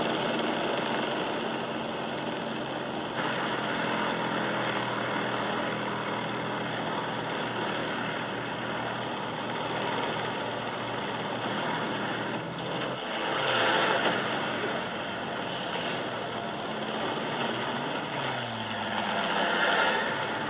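Propeller plane engines droning under a steady rush of wind. Twice the engine pitch falls as the sound swells, as when a plane passes close by.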